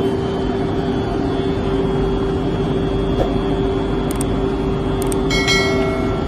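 Steady hum of a WAG-12 electric locomotive's onboard machinery: one strong even tone over continuous rushing noise. A couple of light clicks come in the middle, and a brief high ringing tone sounds near the end.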